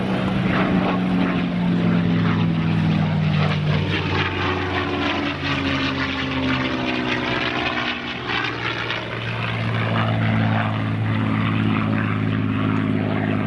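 P-51 Mustang's Packard Merlin V-12 engine and propeller running hard during an aerobatic pass. The engine note falls as the plane goes by, then rises again about two-thirds of the way through and holds steady.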